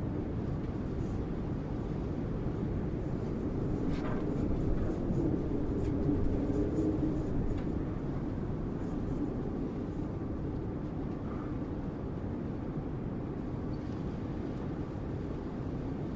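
Strong wind blowing, a deep steady rumble that swells in a gust about four to seven seconds in, with a faint low howl riding on it.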